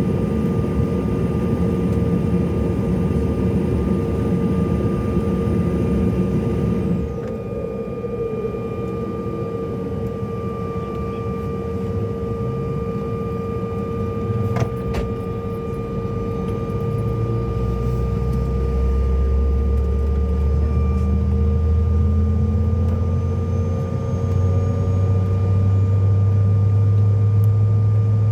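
Cabin noise of a CRJ-700 regional jet with its rear-mounted GE CF34 turbofans running steady tones. A hiss drops away about seven seconds in, and there is a single click near the middle. Over the second half a low engine drone rises in pitch and grows louder as the engines spool up.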